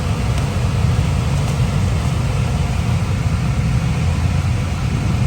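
Steady low rumble of running machinery, even throughout with no distinct knocks or changes.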